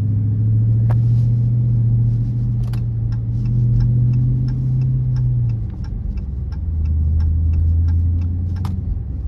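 Dodge Charger R/T's 5.7-litre HEMI V8 with its mid mufflers deleted, rumbling under steady throttle, its pitch dropping lower about six seconds in. A regular light ticking runs over the engine.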